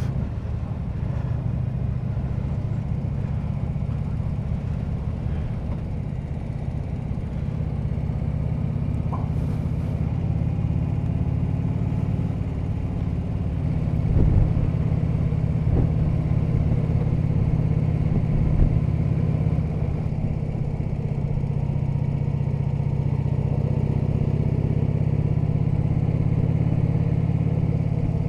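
Harley-Davidson V-twin touring motorcycle engine running steadily on the road, getting a little louder about halfway through.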